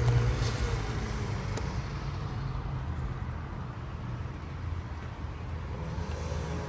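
Steady low hum of an idling motor vehicle engine.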